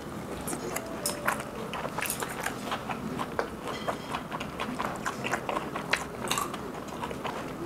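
Close-up chewing and mouth sounds of someone eating garlic lobster, with frequent small irregular clicks and smacks.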